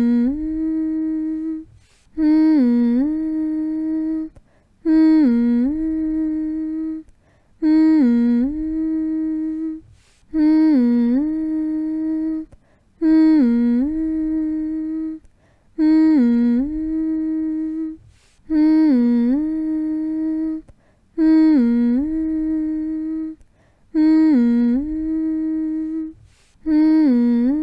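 A person humming one steady note over and over, each hum lasting about two seconds with a quick dip and rise in pitch at its start. Short pauses for breath fall between the hums, about every two and a half seconds.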